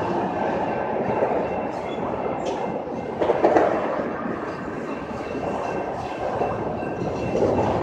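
Steady mechanical running noise, like a moving vehicle, with a brief louder swell about three seconds in.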